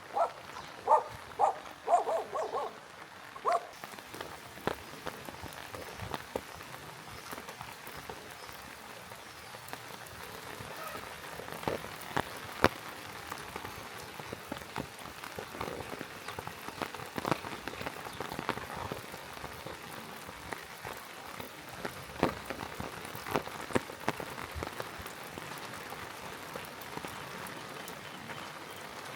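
Steady rain falling and pattering on surfaces, with scattered sharper drips ticking. A dog barks about six times in quick succession during the first few seconds.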